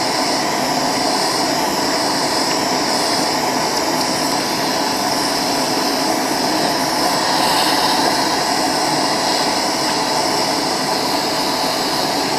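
Eureka Powermite vacuum cleaner running steadily, sucking lint and dust out of the back of an electric space heater. Its sound swells slightly a little past halfway.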